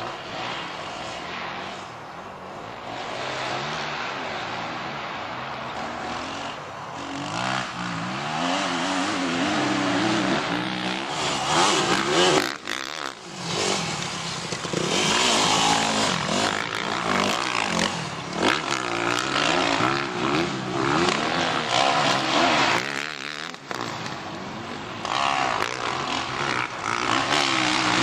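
Dirt-bike engines racing on a motocross/enduro track, revving up and falling back again and again as the riders open and close the throttle through gear changes. The sound drops away briefly twice, about halfway through and again about three quarters of the way in.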